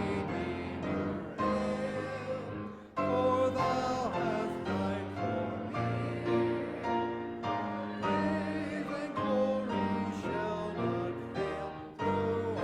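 Singing with piano accompaniment, a sung melody with vibrato over steady keyboard chords.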